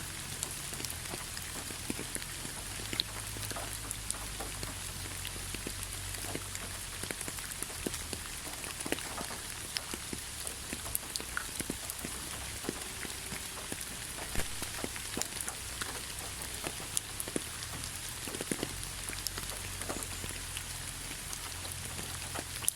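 Steady rain with many separate drops ticking and pattering on surfaces.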